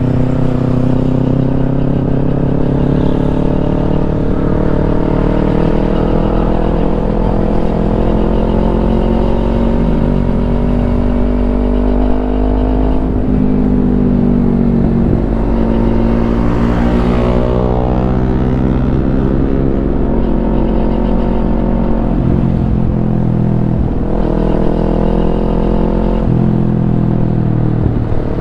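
Kawasaki Ninja 250 parallel-twin running through a Yoshimura aftermarket exhaust under way. The engine note falls about ten seconds in, then rises for several seconds to a peak in the middle and settles back to a steady run.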